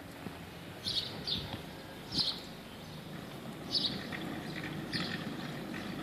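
Small birds chirping: short, high chirps every second or so over a low, steady hum.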